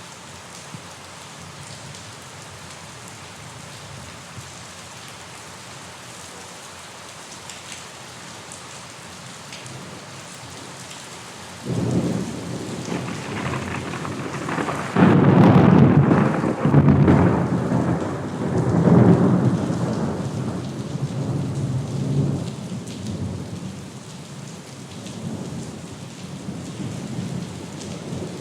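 Steady rain falling, then about twelve seconds in a thunderclap breaks in suddenly and rolls on as a deep rumble in several swells, loudest a few seconds later, before slowly fading back under the rain.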